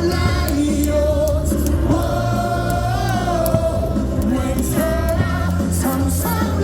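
Baseball cheer song, with a large crowd of fans singing along together over music with a steady bass.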